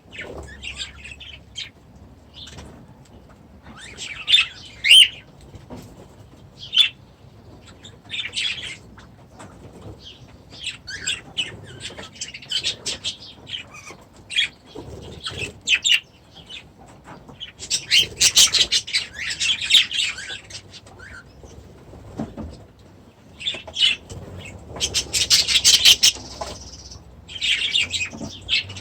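A flock of budgies and cockatiels chattering and calling in an aviary, in scattered bursts of chirps. The busiest, loudest spells come about two-thirds of the way in and again near the end.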